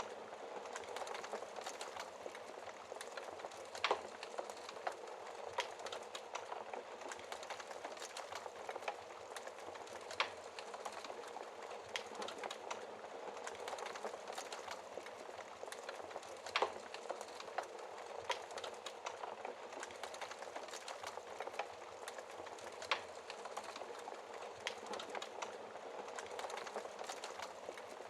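Logs burning in a fireplace: a steady crackling hiss with many small snaps and a few louder sharp pops, about one every six seconds.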